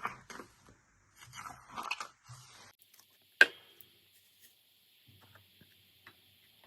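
Slime being squeezed and worked by hand, making clusters of short sticky crackles and squelches, then a single sharp click about three and a half seconds in, followed by faint clicks over a steady hiss.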